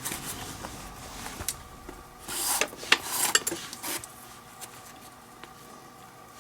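Leather lace being pulled through a baseball glove's lace holes: scraping rubs, two louder drawn-out pulls in the middle, with a few small clicks of leather handling.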